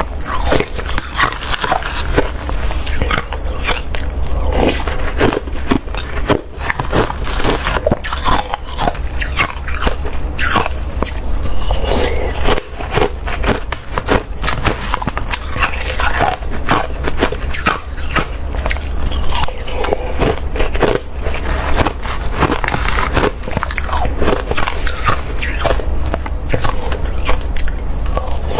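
Close-miked biting and crunching of wet, slushy ice: rapid crackling crunches, one after another, over a steady low hum.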